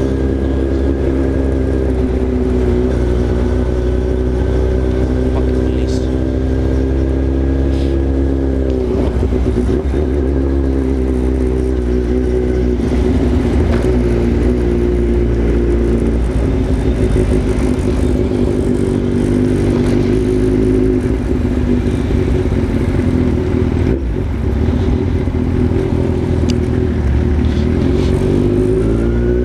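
Yamaha XJ6 inline-four motorcycle engine running under way, the note steady at first, dropping in pitch about nine seconds in as the bike slows, then holding steady again and rising near the end as it accelerates.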